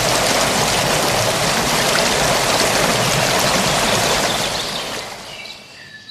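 Forest stream flowing steadily, a dense rush of water that fades away about five seconds in, leaving faint bird chirps.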